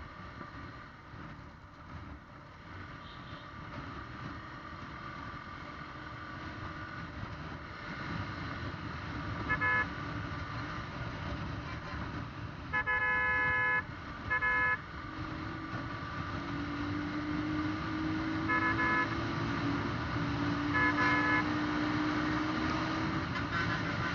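Riding along a highway with engine and road noise that grows steadily louder, while a vehicle horn honks five times: short blasts about ten seconds in and again near fourteen, a longer blast of about a second just before that, and two more short ones later. In the second half an engine's pitch climbs slowly as the vehicle speeds up.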